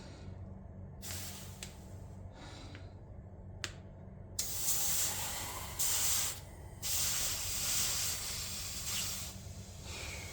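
Hissing in bursts: two short faint hisses and a sharp click, then two long, louder hisses of about one and a half and two and a half seconds.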